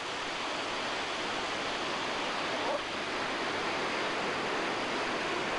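Steady rush of whitewater on a steep mountain river, with no distinct splashes or breaks.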